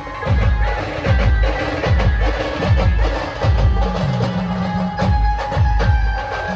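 Maharashtrian brass band playing a sambal rhythm: rapid, loud drum strokes with held melody notes over them, and a low sustained note about four seconds in.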